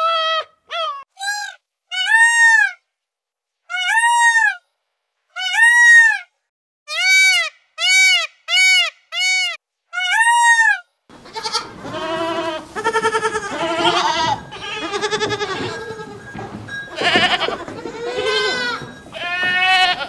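A run of short, high, arched animal calls, each about half a second long with gaps between. Then, from about eleven seconds in, a herd of goats bleating over one another.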